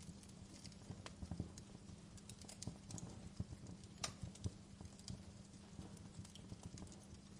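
Fire crackling, with irregular sharp pops and snaps over a faint steady low hum.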